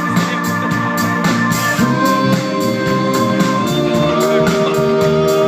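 A band's music playing between sung lines, with no singing. Drums keep a steady beat under long held notes.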